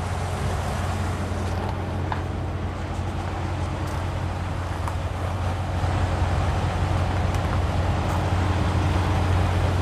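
Semi truck's diesel engine idling steadily, a continuous low hum.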